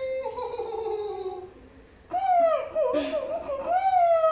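A person making drawn-out pitched voice sounds for a sound-imitation challenge: one long note falling slowly in pitch, then about two seconds in a wavering, meow-like cry that slides down.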